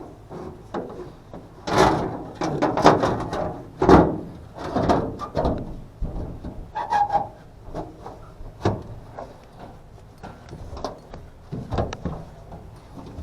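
Irregular knocks, clatters and scrapes of tools and parts being handled while an HVAC unit is worked on. The sounds are loudest in a busy stretch about two to five seconds in.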